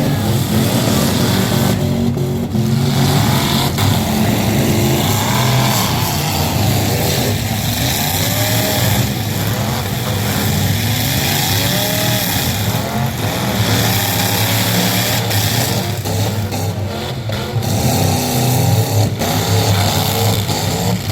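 Loud truck engine running hard, its pitch repeatedly rising and falling with revving, over heavy mechanical noise.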